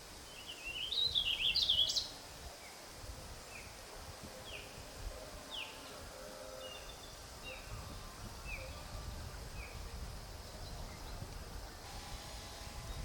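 Bird calls: a burst of quick, high, warbling notes about a second in, then a series of short, high notes that drop in pitch, repeated every half second to a second.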